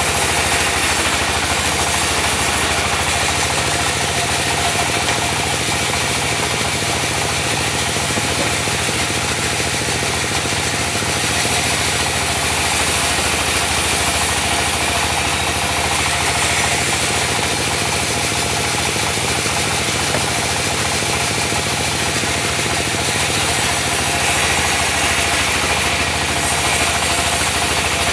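Diesel engine running steadily, driving a mobile sawmill's blade through mahogany, with a constant hiss of sawing over the engine's drone.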